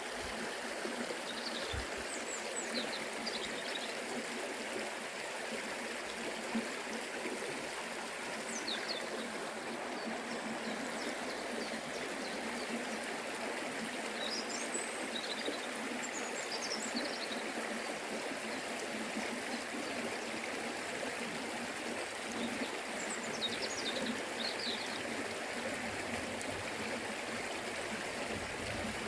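Forest river flowing over rocks, a steady rushing of water, with brief high chirps now and then.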